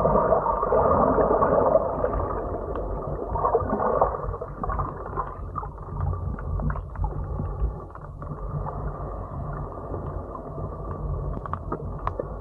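Muffled underwater sound picked up by a camera while snorkelling: water rushing and gurgling with a low rumble and a steady hum, plus a few faint clicks. It is louder for the first four seconds or so, then settles lower.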